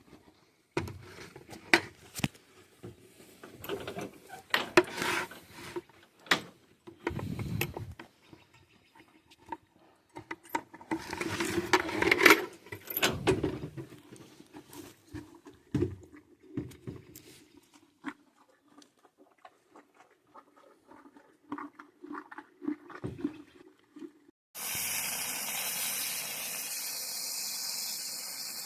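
Irregular knocks and rattles of things being handled, then about 25 seconds in, water suddenly starts running in a steady rush, as when feed is put in to soak.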